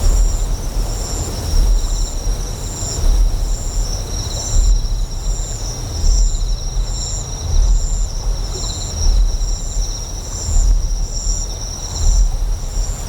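Deep generator hum that swells about every second and a half, with insects chirping steadily over it in short repeating pulses.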